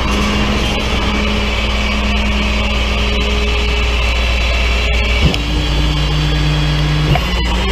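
Tow truck engine running steadily, its pitch changing suddenly about five seconds in and again near the end.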